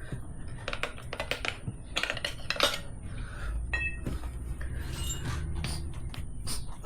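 Metal tire irons clinking and clattering as they are handled, with a run of sharp clicks and one short metallic ring in the middle.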